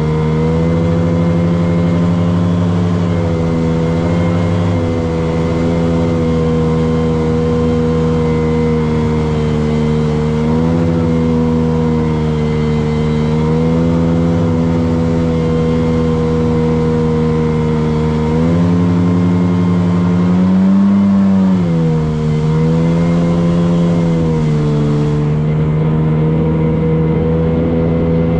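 Motorboat engine running steadily under way, its pitch shifting a little now and then and rising briefly about two-thirds of the way through before settling back.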